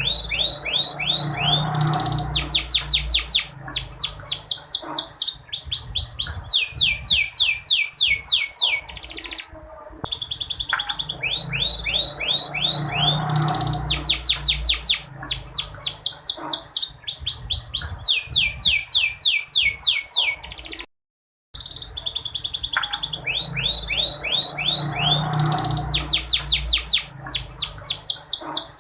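Domestic canary singing long, rapid trills of quick downward-sweeping notes, phrase after phrase. The same run of song repeats about every eleven seconds, as a looped recording, with a brief break twice. A low background rumble sits underneath.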